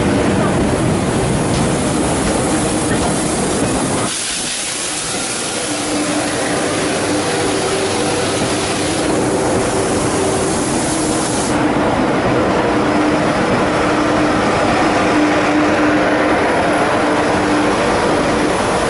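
SNCF TGV inOui trainset at a station platform: rolling noise from the slowly moving coaches at first, then after a sudden change about four seconds in, a steady hum with hiss from the train.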